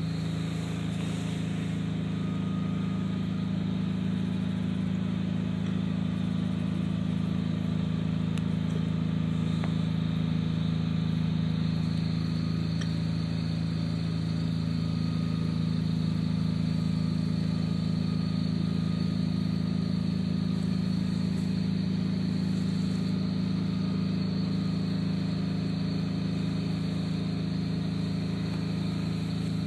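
An engine idling steadily: a constant low hum that holds the same pitch throughout.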